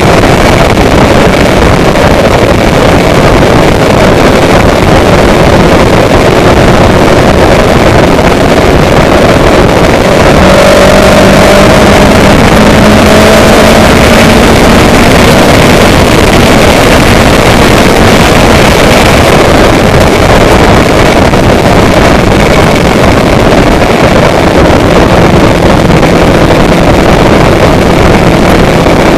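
Loud, steady rushing noise with a faint engine-like drone underneath, which rises slightly in pitch about ten seconds in.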